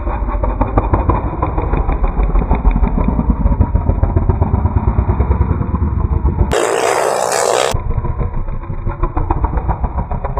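Underbone motorcycle engines running hard in a motocross race, a fast buzzing train of firing pulses. About six and a half seconds in, a brief rushing, hissing noise takes over for about a second before the engine sound returns.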